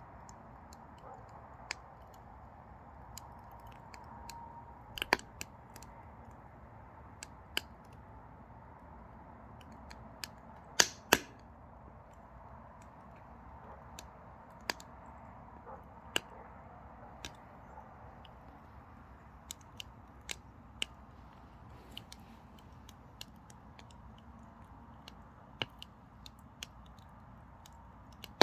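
Mini pine firewood burning in a Carix Vulcan 26 wood stove: irregular sharp crackles and pops over a steady low hiss of flame, the two loudest pops coming close together about eleven seconds in.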